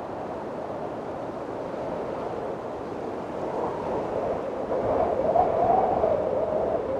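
Strong wind blowing steadily, swelling into a louder gust about five seconds in, with a wavering moaning tone through the gust.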